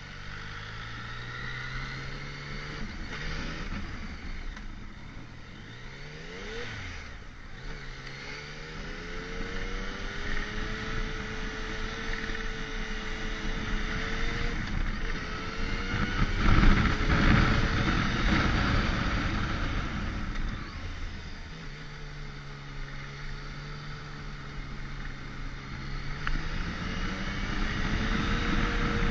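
Motorcycle engine running under way, its pitch rising and falling with throttle and gear changes, over steady road and wind noise. A louder rush of noise swells up about 16 seconds in and fades over a few seconds.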